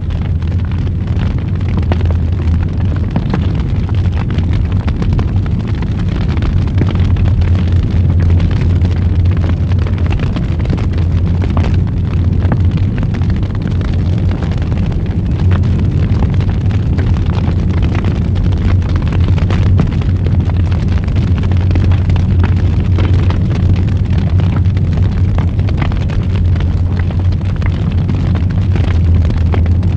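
Wood fire burning in a fireplace: a steady low rumble of flames with frequent small crackles and pops of burning wood, one sharper pop about twelve seconds in.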